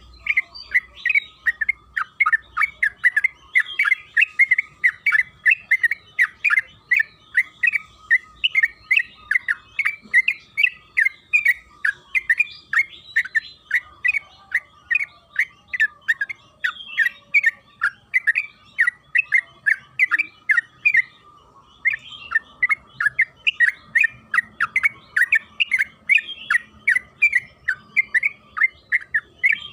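Yellow-vented bulbul (trucukan) singing a long, rapid run of chattering notes, about three a second, with a short break about two-thirds of the way through.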